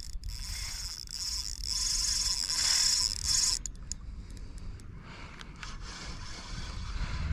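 Spinning reel drag (Shimano Stradic 2500) buzzing as a hooked fish takes line on a long run; the buzz stops abruptly about three and a half seconds in, leaving a fainter hiss with a few clicks.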